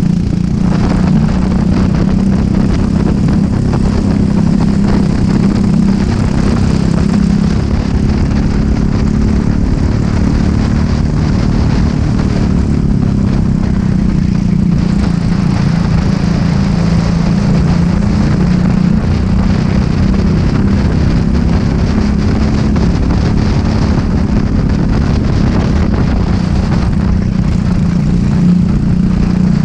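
Racing kart engine running hard at race pace, its pitch wavering slightly as the kart goes through corners, with a short easing about 13 seconds in.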